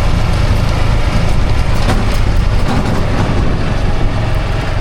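A vehicle's engine running with a steady low rumble while riding along, with a few faint knocks and rattles.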